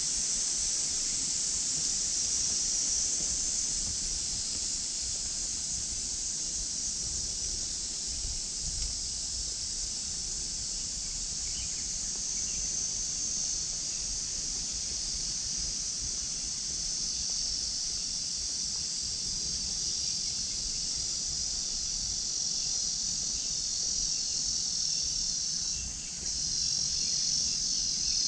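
Chorus of summer insects: a steady, high-pitched shrill buzz that holds on without a break.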